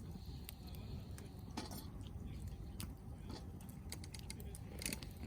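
Log campfire crackling: scattered small sharp pops and ticks over a low, steady rumble of the fire.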